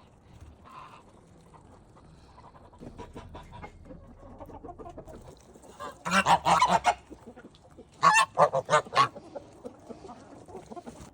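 Farmyard waterfowl calling: soft chatter a few seconds in, then two loud runs of rapid calls, about six and eight seconds in.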